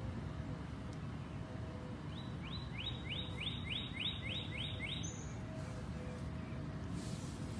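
A bird calls a quick run of about nine short upward-sliding notes, roughly three a second, over a steady low background rumble.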